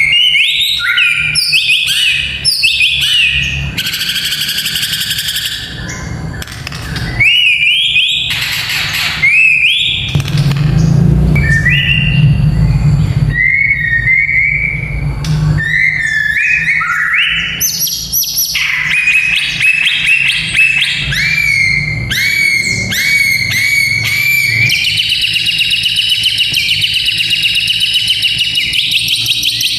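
White-rumped shama (murai batu) singing a fighter-style song: loud, varied whistled phrases with quick rising slurs. Near the end it changes to a fast, buzzy rattle of rapid ticks, the 'kretekan' call, over a low hum.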